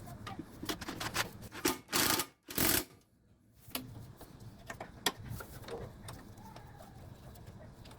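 Clicking and rattling of tools and small metal parts being handled during mower engine repair work, with a few louder scraping bursts in the first three seconds.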